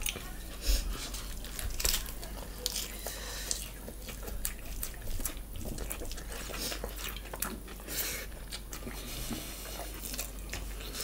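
Close-up eating sounds of two people eating with their hands: wet chewing and lip smacks, with irregular sharp clicks.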